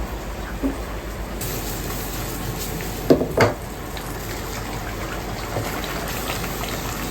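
Ramen shop kitchen work: water running steadily from a tap, with two sharp knocks a little after three seconds in.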